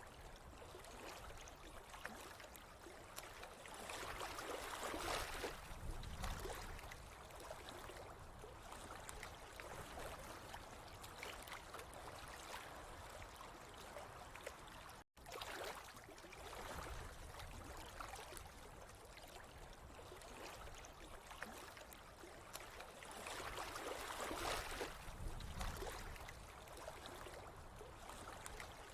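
Running water, a steady trickling and gurgling that swells louder twice, with a split-second cut to silence about halfway through.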